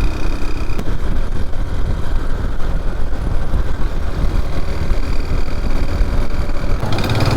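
Motorcycle running along a road at speed: steady engine and road noise with heavy low rumble. Near the end a louder, pitched hum comes in.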